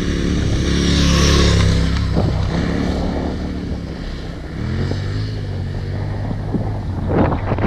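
Adventure motorcycle engine revving hard over wind noise, working through sand. The revs climb about a second in, fall back, and climb again a little past halfway, with a brief louder burst near the end.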